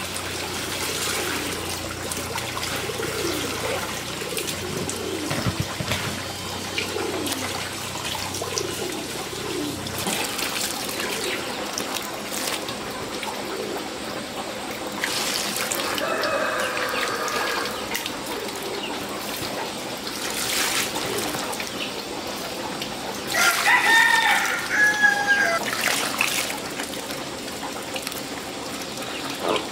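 Rooster crowing twice, once about midway and again a few seconds before the end, with hens clucking.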